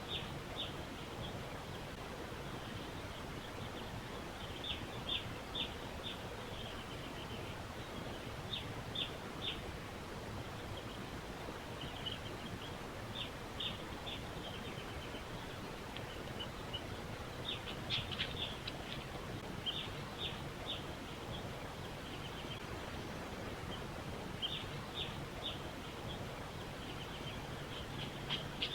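Steady background hiss with short, high chirps repeating in small clusters of two to four, now and then throughout, from a small animal such as a bird or insect.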